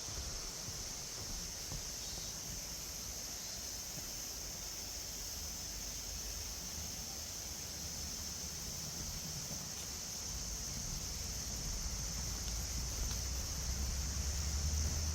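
A steady, high, even drone of insects in the forest, held at one pitch throughout, with wind rumbling on the microphone that grows over the last few seconds.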